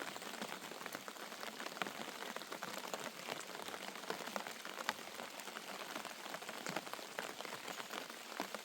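Steady rain, with many small drops striking a surface in a dense, even patter.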